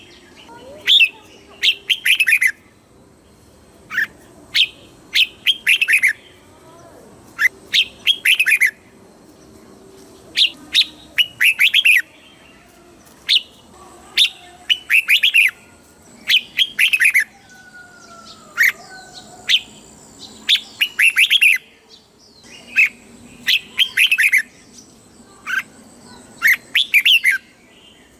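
Red-whiskered bulbul singing: short, quick phrases of sharp, bubbling notes, repeated every one to two seconds.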